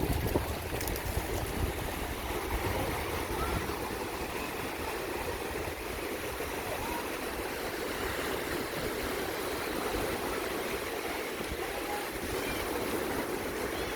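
Sea surf washing steadily on the beach, with wind rumbling on the microphone near the start.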